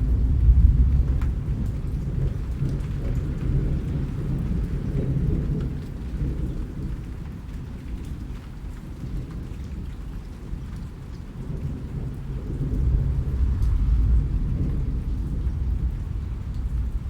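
Rain falling steadily with scattered drop ticks, under deep low rumbles that swell near the start and again about thirteen seconds in.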